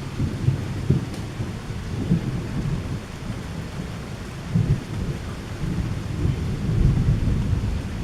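Thunder rumbling low and unevenly over steady rain, swelling louder near the end.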